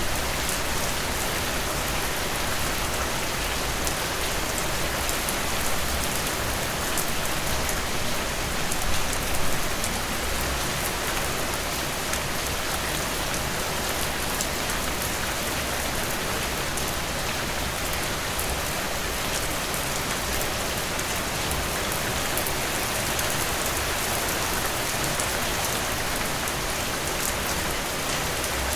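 Heavy rain pouring steadily onto surfaces, a dense even hiss with fine drop patter, slightly heavier for a moment about nine seconds in.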